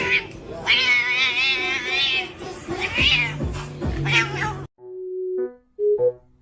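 A cat meows: one long wavering yowl, then two shorter meows, over background music. About three-quarters of the way in the sound cuts to a plain electronic melody of single notes.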